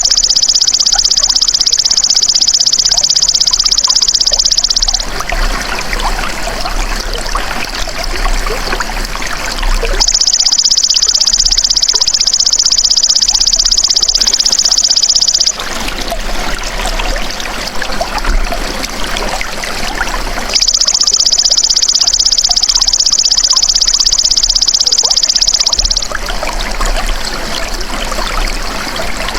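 A belalang emas insect calling in long, high buzzing trills of about five seconds each, three times about ten seconds apart, with a fourth starting near the end. A steady trickle of running water continues underneath.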